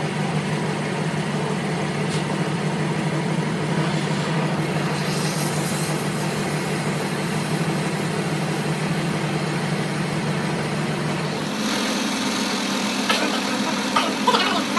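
A workshop machine's motor running with a steady low hum, which changes to a slightly higher, different hum about three-quarters of the way through. A few sharp metallic clicks or knocks follow near the end.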